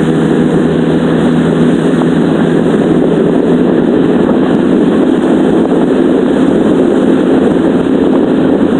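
20 hp Yamaha outboard motor on a small boat running steadily under throttle, with no let-up.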